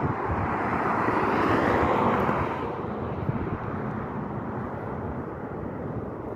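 Outdoor background noise: a rushing sound swells over the first two seconds or so and falls back, over a steady low rumble. No bird call stands out.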